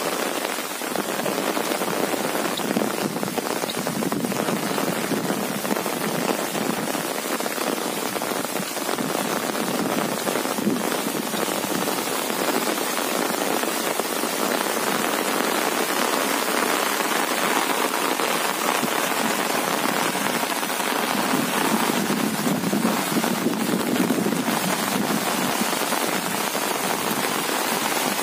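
Steady rain falling on an umbrella held overhead: a dense, even patter of raindrops.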